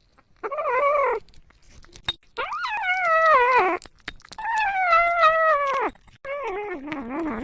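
A cat meowing four times in long drawn-out calls, each falling in pitch at the end; the last call is lower and wavers.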